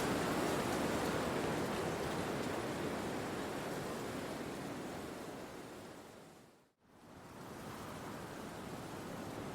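Steady wind rushing through forest trees, an even noise that slowly fades away to silence near the end, then quickly swells back up.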